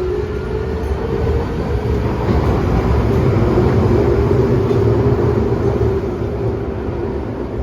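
Toei 6300-series subway train running, heard on board: the VVVF inverter traction motors give a steady whine, the type fans call the "tornado inverter", over a constant rumble of wheels on track.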